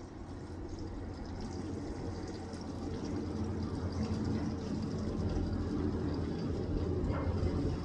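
Running water, a steady splashing rush that grows slowly louder.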